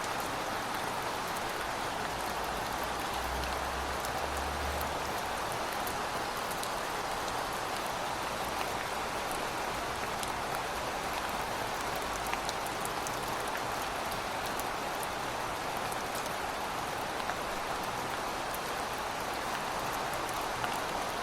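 Heavy rain falling steadily: a dense, even hiss of rain on hard surfaces, with individual drops ticking through it. There is a brief low rumble a few seconds in.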